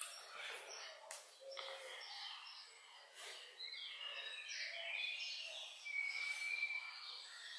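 Small birds chirping and twittering, many short quick notes with one longer held note near the end, and a few faint clicks early on.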